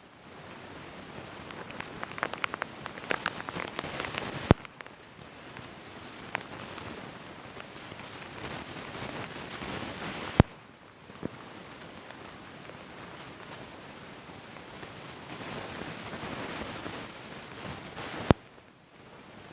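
Outdoor background noise: a steady hiss with a stretch of scattered crackling near the start, broken three times by sharp clicks after which the background level changes.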